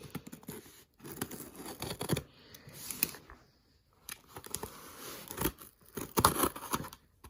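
A shipping box being torn open by hand: packaging ripping and rustling in irregular bursts, with a short pause about halfway through.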